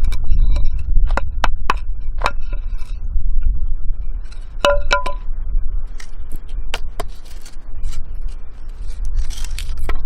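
Sharp metallic clicks and clinks, scattered across several seconds; about five seconds in a quick cluster of them rings briefly with a bell-like tone, as steel blades knock together. A steady low rumble sits underneath.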